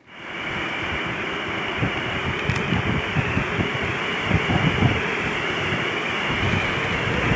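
Blizzard wind blowing across the microphone: a steady rushing hiss that starts abruptly, with uneven low thuds as gusts hit the mic.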